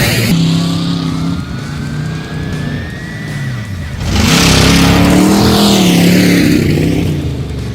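Tough truck engine revving, its pitch rising and falling, with a thin rising whine in the first few seconds. About four seconds in it turns much louder, with a rush of noise sweeping in pitch as the truck passes close, then fades.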